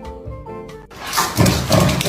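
Plucked-string music cuts off abruptly about a second in, and a dog starts growling loudly and roughly.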